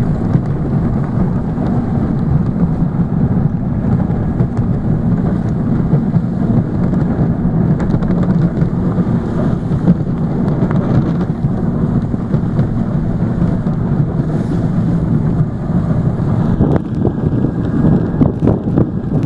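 A snowplow vehicle's engine running steadily while plowing snow, a continuous low rumble with wind buffeting the microphone.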